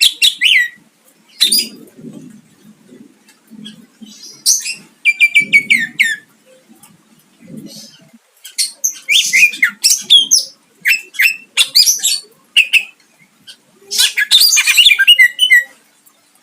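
Cucak ijo (greater green leafbird) singing loud, high-pitched bursts of varied, fast-changing phrases with short pauses between them. About five seconds in comes a quick run of repeated notes. The song is the kind billed as full of mimicked phrases (isian) and harsh 'shots' (tembakan).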